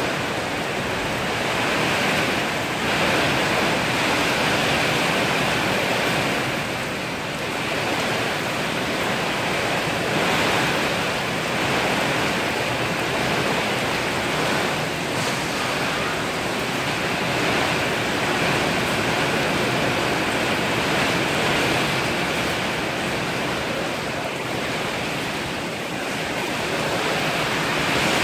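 Heavy rain pouring down in a storm: a steady hiss that swells and eases slightly.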